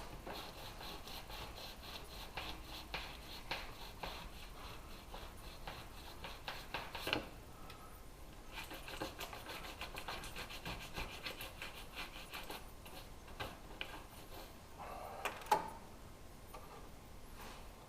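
Rapid scraping and rubbing as brittle, nearly 50-year-old caulking is worked out from around the windshield of a 1976 Plymouth Gran Fury wagon, in two long stretches with a few sharp clicks between them.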